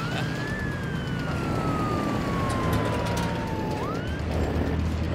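A siren-like whistle tone. It jumps up at the start, falls slowly for about three seconds, then swoops up again and cuts off near the end, over a steady low rumble.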